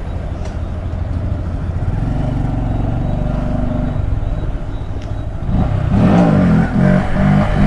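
Honda Grom's single-cylinder engine running at low revs, then about five and a half seconds in it gets louder, its pitch rising and falling several times as the bike accelerates away.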